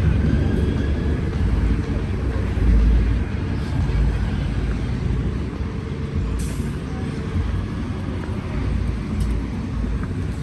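Cabin sound of an Alexander Dennis Enviro400 double-decker bus on the move: a steady low rumble from the engine, running gear and road, with a faint whine above it. A short hiss of air about six seconds in.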